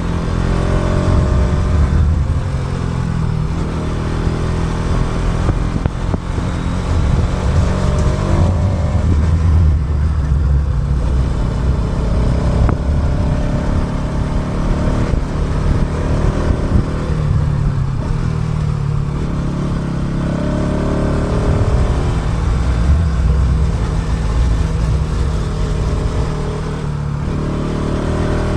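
Motorcycle engine running while riding, its pitch rising and falling as it revs up and eases off several times, under a heavy low rumble. Recorded by a DJI Action 2 action camera's built-in microphone with no external mic.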